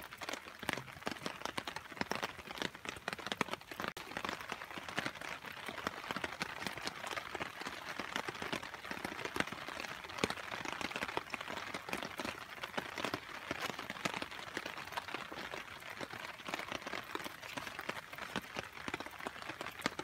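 Rain pattering steadily on a surface: a dense, even stream of small drops and ticks.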